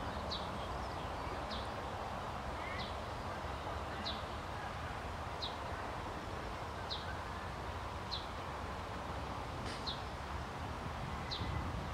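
A bird calling over and over, one short high note falling in pitch about once every second or so, over a steady low background noise.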